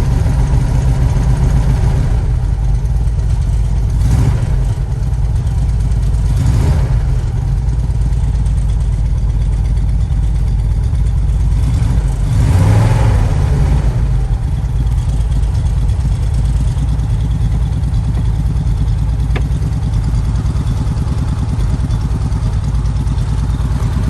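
Ford F-150 pickup engine idling steadily on a newly replaced fuel pump, the engine note rising briefly a few times, the longest swell about halfway through.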